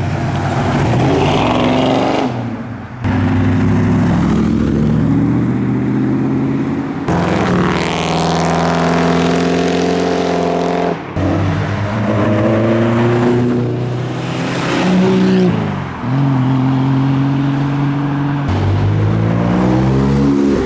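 Car engines revving and accelerating away, one car after another, their pitch rising as they pull off; the sound switches suddenly from one car to the next several times.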